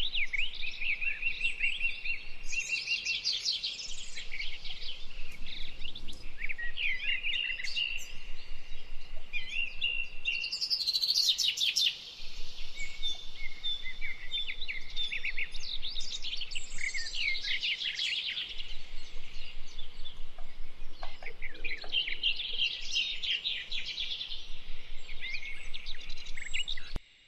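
Birdsong: a near-continuous run of fast high chirps and trills mixed with held whistled notes. It cuts off suddenly near the end.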